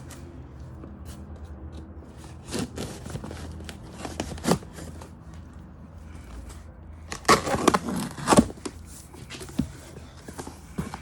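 A knife cutting open a package, heard as scattered scraping, ripping and rustling strokes. A louder run of rips comes about seven to eight and a half seconds in.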